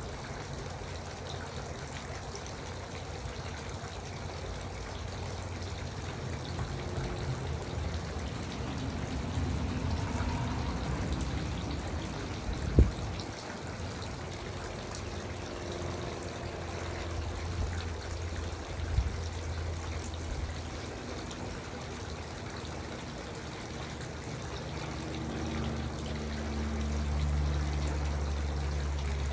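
Garden water fountain running steadily. A sharp knock about halfway through is the loudest sound, with a fainter one a few seconds later, and a low rumble rises near the end.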